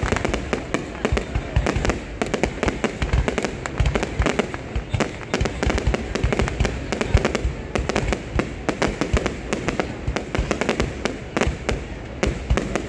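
Fireworks display going off: a dense, continuous string of sharp bangs and crackles, many bursts overlapping.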